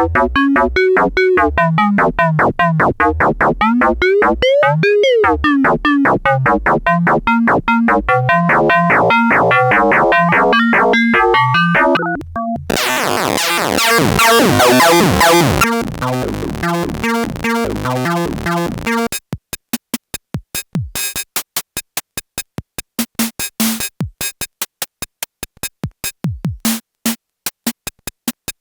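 SxLab Fortress synthesizer playing fast sequenced notes whose timbre sweeps bright and back again. Before the middle it changes to a brighter, denser patch. For the last third it gives way to sparse, sharp drum-synth clicks and hits with silences between them.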